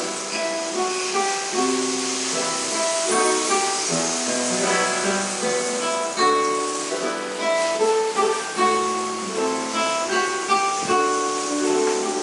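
Acoustic guitars playing a classical piece, several plucked lines interweaving in quick, ringing notes.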